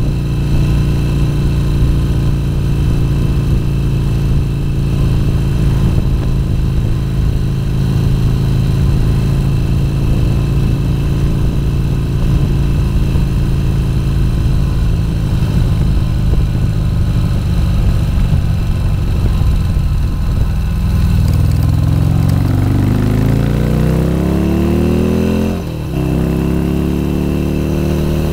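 Harley-Davidson XR1200's air-cooled V-twin engine running steadily at cruising speed, then pulling harder with a rising pitch about three quarters of the way through. Near the end the sound dips briefly as the rider shifts up, then the engine pulls again.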